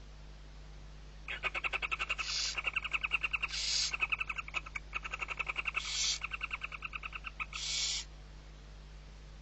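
Barn owl chick calling: a rapid chittering series of about ten pulses a second, broken four times by short hisses, lasting about seven seconds. It is typical of a begging chick at feeding time.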